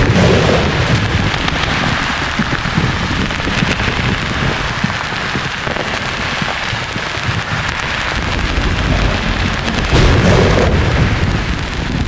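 Thunder rumbling over a steady hiss: one deep rumble breaks in right at the start, and a second one about ten seconds in.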